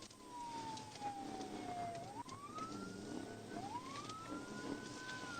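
Police car siren on a slow wail, its pitch falling for about two seconds, then climbing and falling again in long sweeps.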